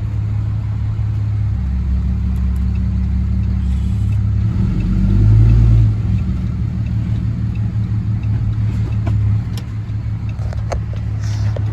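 Dodge Ram pickup truck towing a loaded gooseneck trailer, its engine and road noise making a steady low drone that swells briefly about five seconds in and then drops back.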